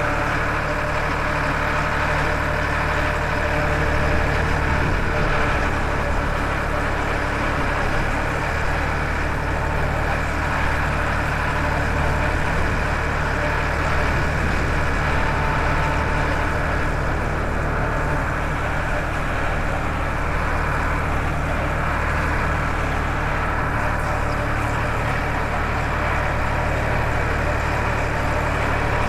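Farmtrac 60 tractor's diesel engine running at a steady speed while driving, with an even drone that holds without change.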